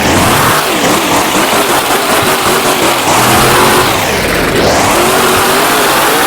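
Monster truck engine revving hard, loud, with its pitch falling and climbing again several times as the throttle is worked.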